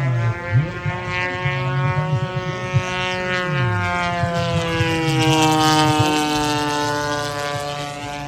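Large-scale RC warbird's gasoline engine running hard in flight, one steady engine note whose pitch slides slowly lower as it gets louder about five seconds in and then eases off, the sound of the plane passing close by.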